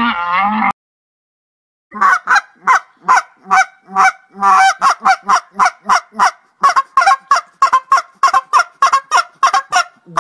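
A llama's wavering call cuts off just after the start. After a short gap, a goose honks in a rapid unbroken series of short calls, about three a second.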